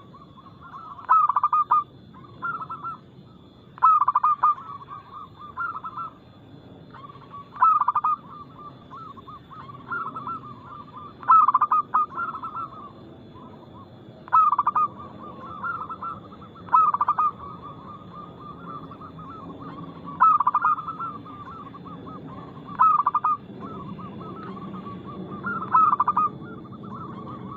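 Zebra doves (perkutut) cooing. About every two to three seconds comes a phrase of quick short coo notes that starts loud, with quieter coos in between.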